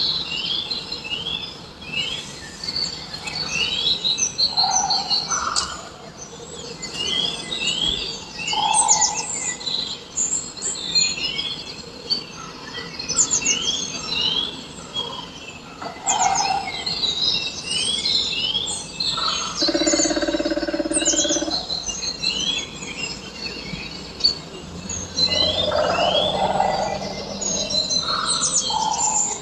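Many small birds chirping, short rising calls repeating densely throughout. About twenty seconds in, a lower, buzzy sound with several tones lasts about a second and a half.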